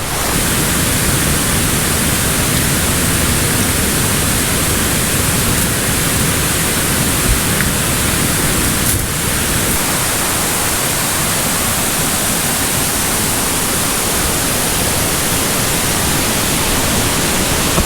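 Creek cascades and waterfalls: a steady, loud rush of falling water.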